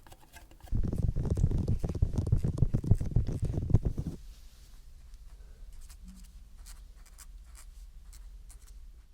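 A low, scratchy rubbing sound close to the microphone, starting about a second in and lasting about three seconds, then faint scattered clicks over a low hum.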